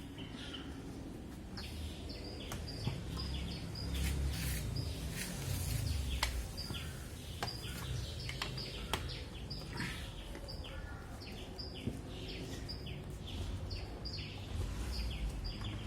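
A small bird chirping over and over, short high chirps about two a second, with scattered sharp clicks and knocks mixed in.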